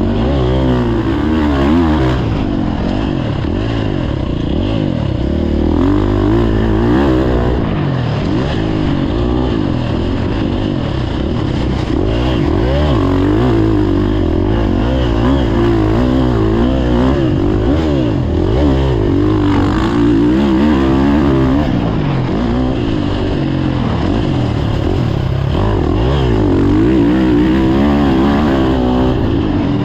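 Motocross dirt bike engine revving up and down over and over, its pitch climbing and dropping every second or two as the throttle opens and closes and the bike shifts.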